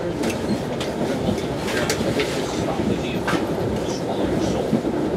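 Steady rumble of an NJ Transit MultiLevel passenger coach running at speed, heard from inside, with irregular sharp clicks and knocks from the wheels and car body.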